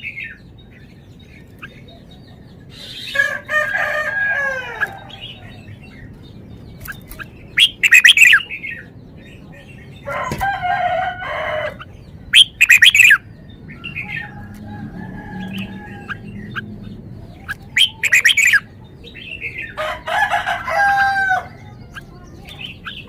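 Red-whiskered bulbul singing loud, short, bright song phrases, repeated several times a few seconds apart. Between them come longer calls with falling tones, with crowing from roosters.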